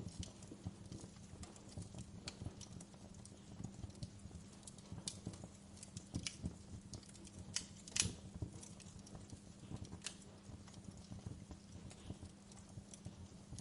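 Wood fire crackling in a fireplace: a steady low rumble under irregular sharp pops and snaps, the loudest pop about eight seconds in.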